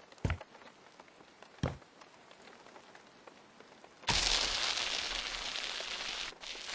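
A couple of soft thuds, then a loud, steady hiss starts suddenly about four seconds in and keeps going.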